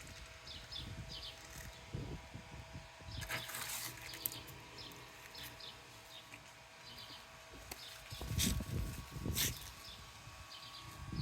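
Outdoor ambience with small birds chirping in short repeated clusters, and a few louder rushes of noise about three and a half seconds in and again near the end.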